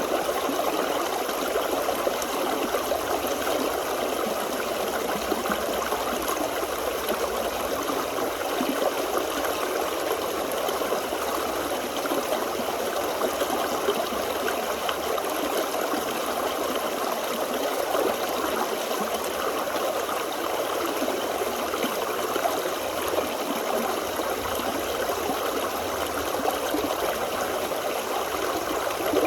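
Forest stream flowing over rocks: a steady, even rush of water that does not change.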